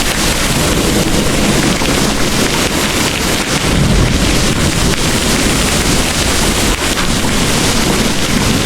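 Heavy rain pouring in a steady, dense hiss, with low storm rumbling underneath that swells briefly about four seconds in.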